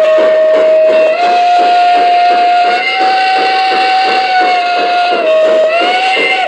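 Lionel Legacy B6sb 0-6-0 model steam locomotive's onboard sound system blowing one long steam whistle, its pitch stepping up, dipping briefly and rising again as it is quilled, then cutting off near the end. A rhythmic chuffing runs beneath it.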